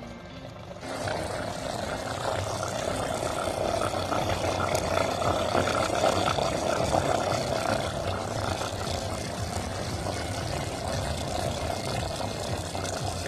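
Chicken pieces frying in a pan with onions, green chillies and curry leaves: a steady sizzle with a low roar under it, growing louder about a second in.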